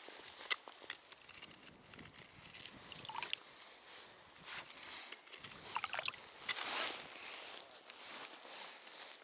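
Wet squishing and sloshing with scattered small clicks, and a brief hissing scrape about seven seconds in.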